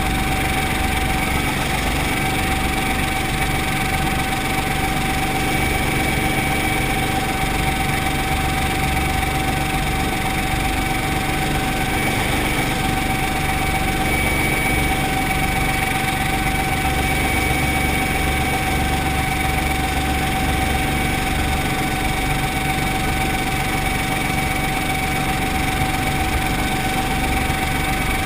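Brantly B2B helicopter's four-cylinder Lycoming piston engine and rotor drive running steadily: a low drone with a constant high whine over it.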